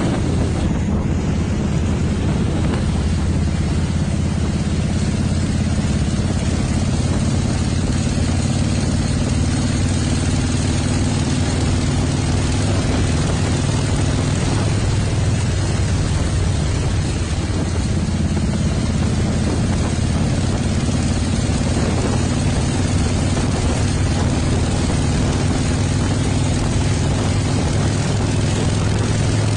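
Motorcycle engine running steadily, with its pitch shifting slightly a few times.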